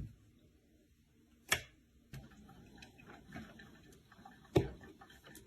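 Three sharp clicks or taps: one at the start, one about a second and a half in, and one more about four and a half seconds in, over faint low background noise.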